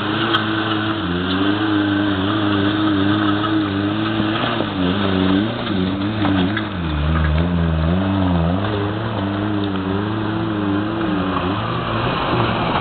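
Small off-road 4x4's engine working under load as it climbs a dirt track, its revs wavering up and down with the throttle and dropping lower for a couple of seconds just past the middle.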